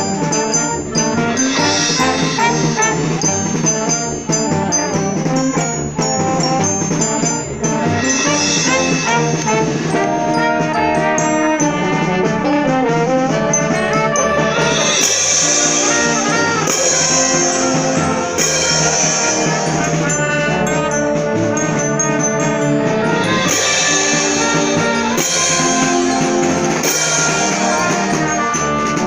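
Symphonic concert band playing, with the brass section prominent and several crashes from the percussion in the second half.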